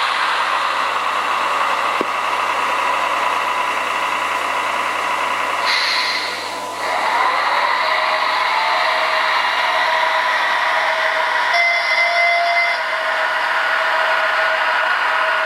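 A TT-scale VL80 model locomotive's sound decoder plays electric-locomotive running sounds through a small onboard speaker: a steady hum and whir. About six seconds in the sound dips briefly, then new steady tones come in. There is one click about two seconds in.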